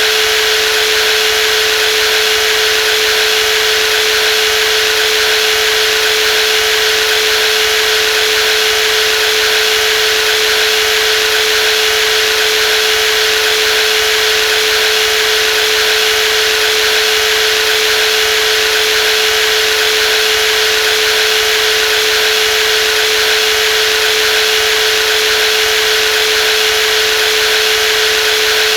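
Brushless jigsaw running steadily: one unchanging mid-pitched whine over a bright hiss, with no change in speed or load.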